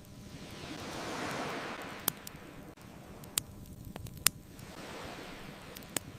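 An ocean wave washes in, swelling and fading over about two seconds, and a softer second wave follows, over a low crackle of a wood bonfire. Four sharp pops from the burning wood are the loudest moments.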